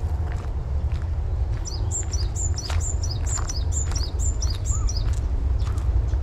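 A bird calling a quick series of about eight high, downward-sliding notes, starting about a second and a half in and lasting about three seconds, over a steady low rumble and a few footsteps.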